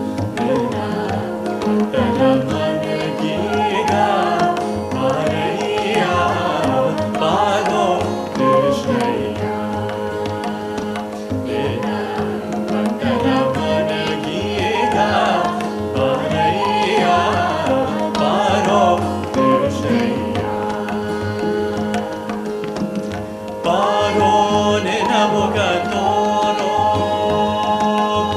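Live Carnatic-style fusion music: an ornamented melody gliding over a steady drone, with tabla accompaniment.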